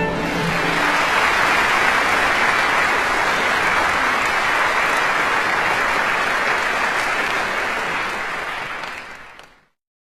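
Audience applauding steadily, then fading out over the last two seconds.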